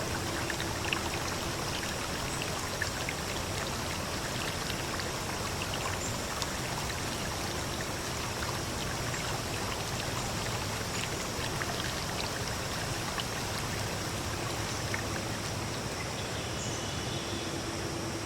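Steady rush of running water, with small scattered drip-like ticks.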